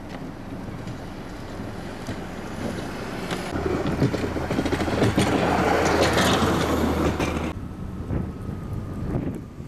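A vehicle on a snowy road, engine hum and tyre rush swelling as it draws close and then cutting off abruptly, with wind on the microphone.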